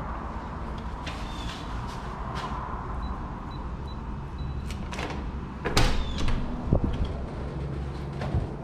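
A door being opened: a few sharp clicks and knocks of the latch and handle about two-thirds of the way in, over a steady low background rumble.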